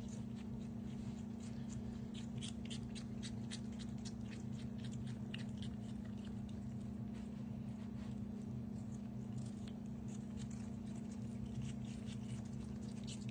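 Pet skunks chewing pieces of apple: quick, irregular crunchy clicks of eating, over a steady low hum.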